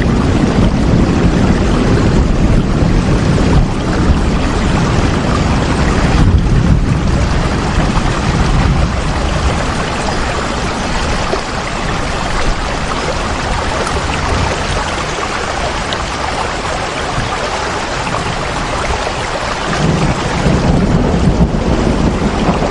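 Steady rain, an even hiss, over a deep rumble that is strong at first, eases through the middle and swells again near the end.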